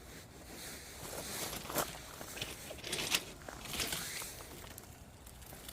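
Firewood burning in a folding fire pit, with scattered pops and crackles. Several bouts of shuffling rustle close by, like someone moving or handling things.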